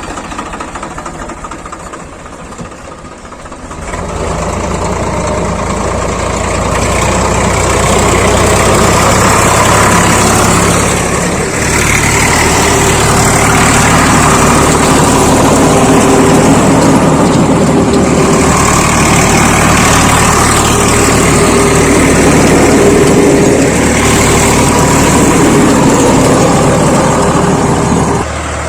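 Swaraj 855 FE tractor's diesel engine running steadily with a rotavator, with a low drone and a rougher mid-range churn. It grows louder about four seconds in and dips briefly near the middle.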